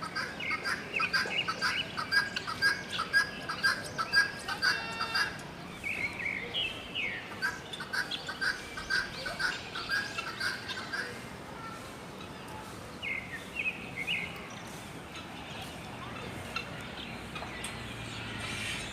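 Small aviary birds chirping in quick repeated runs of about three or four notes a second. The runs come in two spells, then give way to a few scattered calls.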